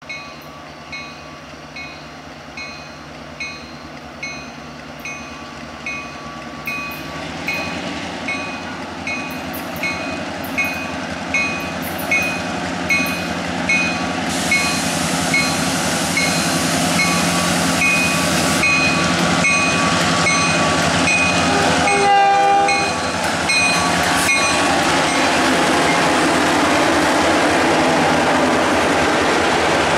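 CN freight train led by EMD GP38-2 and GP9 diesel locomotives approaching and passing, the engines growing louder as it nears. A bell dings steadily about once every three-quarters of a second until about four-fifths of the way in. A quick toot of the locomotive horn comes as the lead engine goes by, and the freight cars' steady rolling follows.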